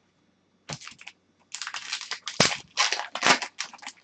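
Hockey trading cards and their packaging being handled: irregular crinkling and rustling that starts just under a second in and goes on in quick bursts.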